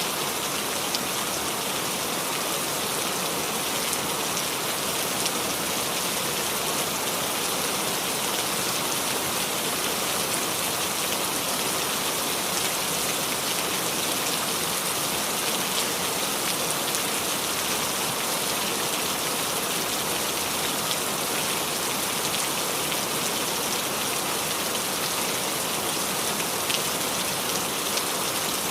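Steady rain falling on leaves, a constant hiss with scattered individual drop ticks.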